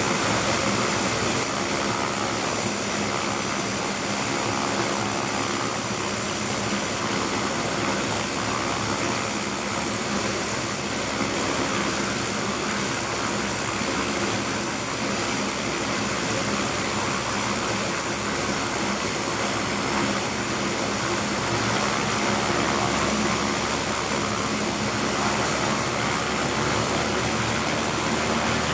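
MD530FF helicopter's Rolls-Royce 250 turboshaft engine running on the ground during start-up, a steady drone with a high thin turbine whine that rises slightly in pitch near the end.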